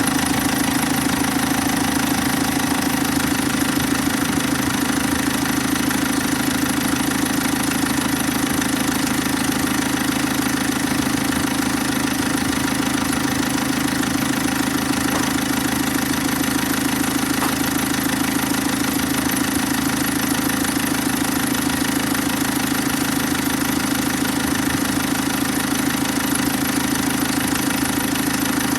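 Caterpillar 3054 four-cylinder diesel engine running steadily, with an even, rapid beat.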